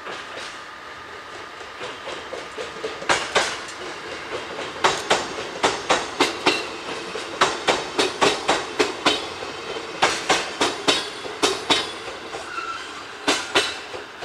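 Shinano Railway 115-series train's wheels clattering over rail joints and points: a long run of sharp clacks, many in close pairs, starting about three seconds in.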